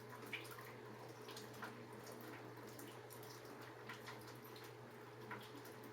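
Faint, irregular drips of rainwater leaking down a flue pipe and falling into a bucket, over a low steady hum.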